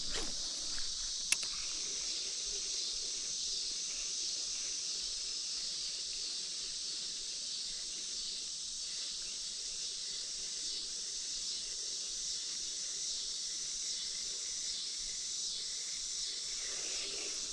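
Steady, high-pitched chorus of insects such as crickets, with a single sharp click about a second in.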